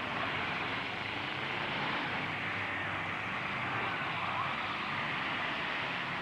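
Steady, continuous din of running truck engines, with no distinct crash or impact standing out.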